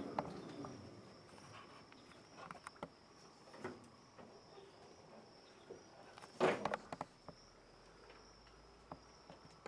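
Steady high-pitched drone of insects, such as crickets or cicadas, along the river, with scattered small clicks and splashes. There is one louder sharp crack or splash about six and a half seconds in.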